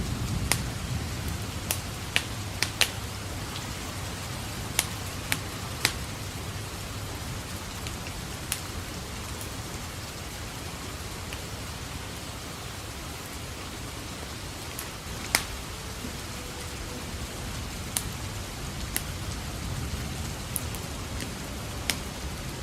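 Steady rain mixed with a wood fire crackling in a fireplace: sharp, irregular pops scattered over the even hiss of the rain.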